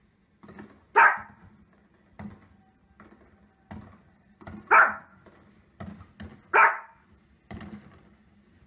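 A small dog barking three sharp times, at fireworks on a television, with softer pops and thumps from the televised fireworks in between.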